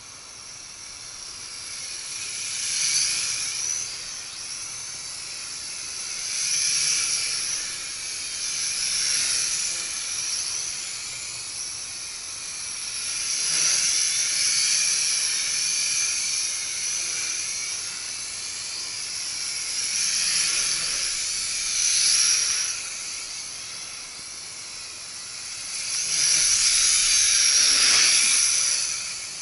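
Mini quadcopter's small brushed motors (WLtoys V636 motors in a Nihui U807) and propellers whining in flight. The high whine wavers in pitch and swells and fades several times, loudest near the end.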